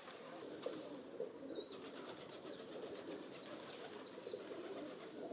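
Birds calling: a short high chirp repeating five times, about once a second, over a faint low murmur.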